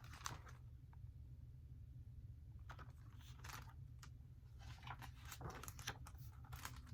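Faint rustling and soft clicks of paper pages being handled and turned in a picture book, over a low steady hum.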